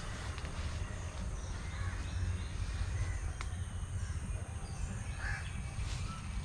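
Crows cawing a few times over a steady low rumble outdoors.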